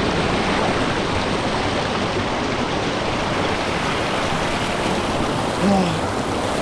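Small waterfall pouring into a pool, a steady rush of falling and flowing water. A short grunt from the man sitting in the icy water comes near the end.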